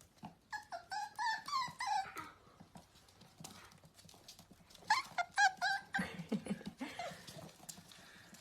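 A dog whining in two runs of short, high-pitched yelps, one about half a second in and the other about five seconds in.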